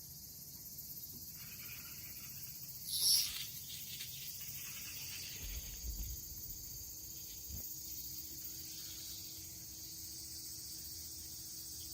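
Cicadas droning at a steady high pitch, with a short, louder burst of buzzing about three seconds in.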